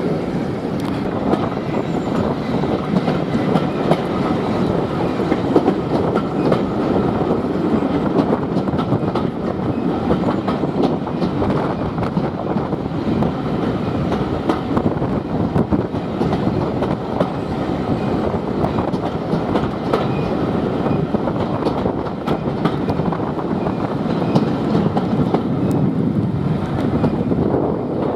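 Heritage train running on the line, a steady rumble with frequent clicks from the wheels passing over rail joints.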